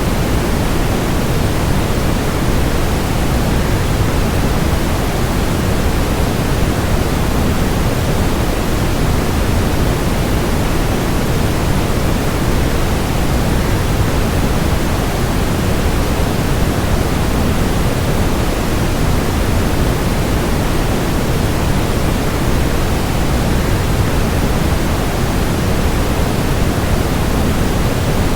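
Steady waterfall rush blended with white noise: an even hiss, heaviest in the low range.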